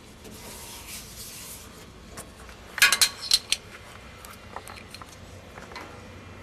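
A quick cluster of sharp metallic clinks and clatters about three seconds in, as of small metal parts knocking together, with faint rubbing and handling noise around it.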